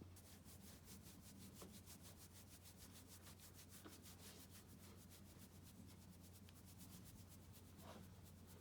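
Faint, fast rhythmic scratching or rubbing, about seven strokes a second, over a low steady hum.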